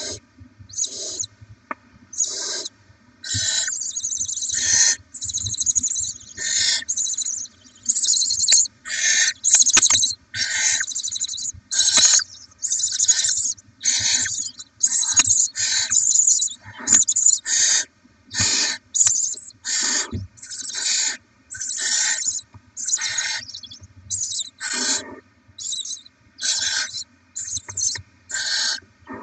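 Barn owl chicks giving their hissing, rasping begging calls, repeated about once a second: young owlets begging for food.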